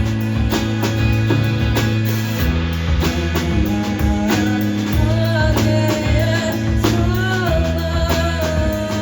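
Live band playing a song with guitar, bass and drums to a steady beat; about halfway through, a singer comes in with a long held note that wavers in pitch.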